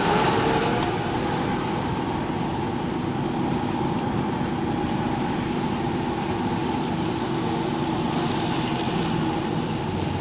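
HGV lorry's diesel engine running steadily.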